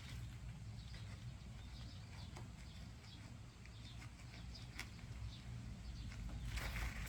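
Faint scattered taps and scratches of kittens' paws and claws on an umbrella, with a busier burst of rustling near the end, over a steady low rumble.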